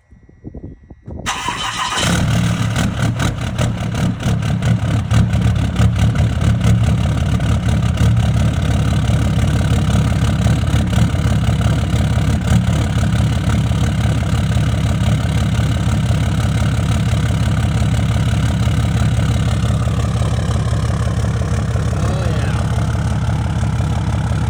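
Cummins diesel engine in a pickup truck starting at about 30°F: it fires about a second in and settles into a steady idle with a fast, even diesel clatter.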